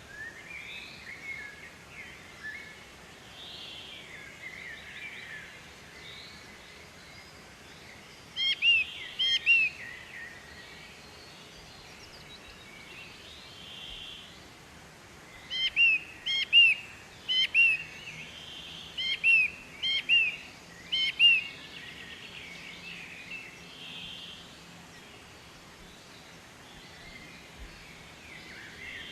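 Birds singing: one nearby bird gives quick runs of short, arched chirps, first about eight seconds in and then in several runs from about 15 to 21 seconds. Fainter calls of other birds and a steady outdoor background noise carry on between the runs.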